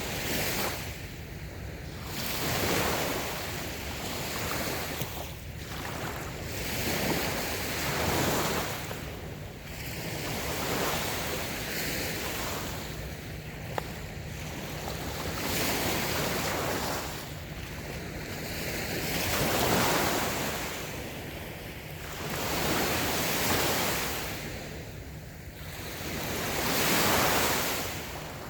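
Small waves breaking and washing onto a sandy beach. The surf swells and falls back every two to three seconds.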